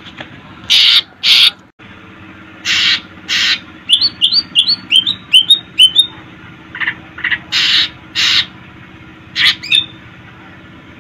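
Cucak ijo (green leafbird) calling. Loud, harsh notes come in pairs, repeated three times, and in the middle there is a quick run of about eight short rising chirps.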